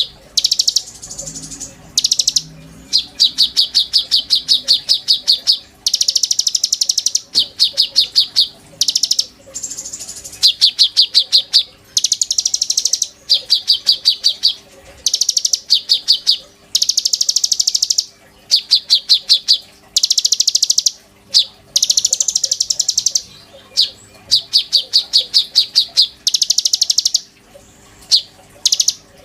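A konin songbird singing non-stop: fast, buzzy trills of rapidly repeated high notes, each burst lasting about a second, coming over and over with short gaps.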